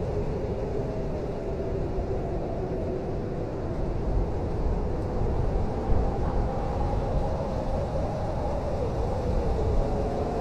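Blizzard wind blowing steadily: a deep rumble with a faint wavering howl, swelling briefly about six seconds in.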